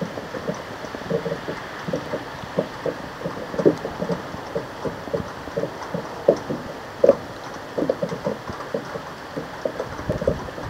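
Scattered raindrops tapping irregularly on a hard surface close to the microphone, a few drops a second, over a faint steady hiss of wind and rain.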